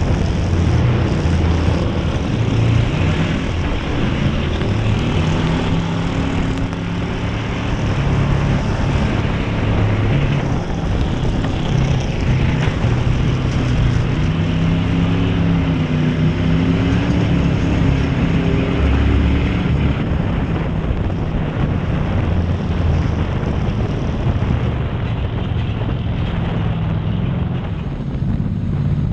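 Race car engine running hard through a dirt-track heat race, its pitch rising and falling steadily as the car accelerates and lifts.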